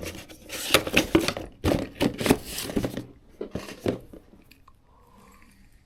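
Packaging crinkling and tearing as a new fishing reel is unwrapped by hand: a run of sharp crackles and rustles for about four seconds that then dies down to faint handling.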